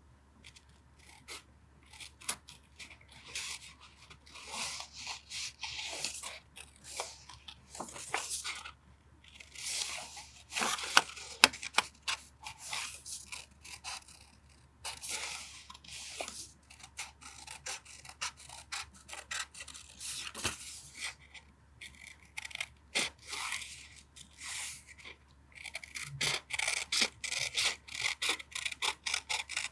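Paper being handled for a journal collage: irregular crisp rustling, rubbing and tearing of sheets and scraps, in short bursts with denser runs now and then.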